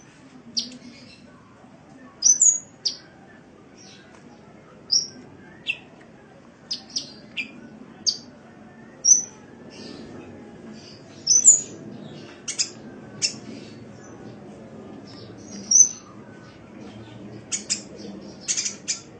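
Sunbird (Indonesian 'kolibri') calling in short, high, sharp chirps and quick down-slurred notes, spaced irregularly, sometimes in quick pairs or clusters, over a faint low background rumble.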